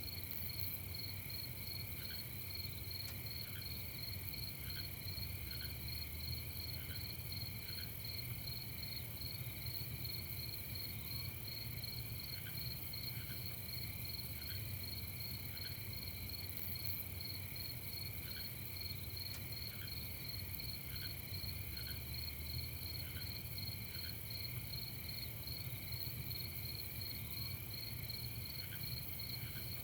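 Night chorus of crickets chirping steadily in fast, even pulses, with a few lower short chirps now and then over a low, steady rumble.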